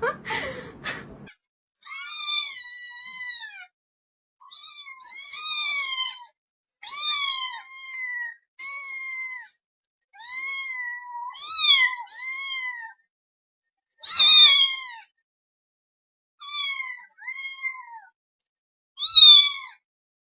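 A cat meowing over and over: high-pitched calls that rise and fall, often two in quick succession, with short silences between.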